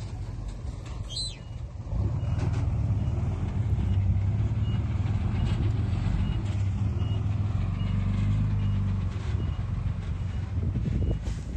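Engine of a heavy earthmoving machine running with a steady low drone, getting louder about two seconds in as it works harder.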